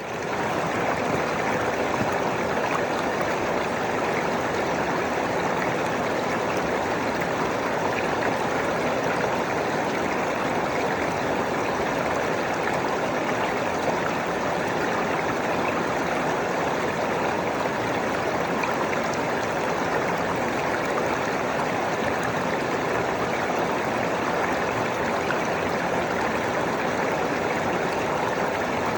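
Flowing water rushing steadily, an even unbroken wash of sound that begins abruptly.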